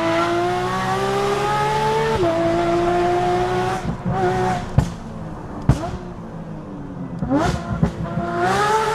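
Porsche 911 GT3 RS's naturally aspirated flat-six pulling up through the revs, with an upshift about two seconds in and a steady pull after it. Midway the driver lifts off: a few sharp cracks and quick throttle blips on the downshifts. The engine rises again under acceleration near the end.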